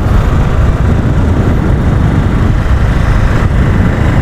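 Steady loud low rumble of wind buffeting the camera microphone on a moving vehicle, with the road and engine noise of the ride underneath.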